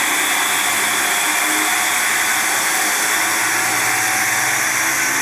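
Brushless-motor-driven gyro flywheel in an RC dirt bike spinning at speed, a steady high whir, with a lower hum joining about three seconds in.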